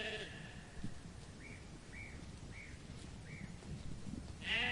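A sheep bleat ends at the start and another begins near the end. Between them come four faint, short, high bird chirps about half a second apart.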